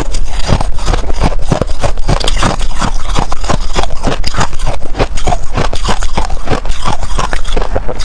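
Freezer frost being chewed close to the microphone: loud, crisp crunching, several crunches a second without a break.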